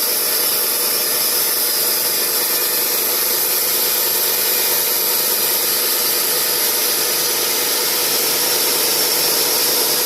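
Stihl two-stroke chainsaw running steadily at full throttle, ripping lengthwise through a spruce log to mill boards.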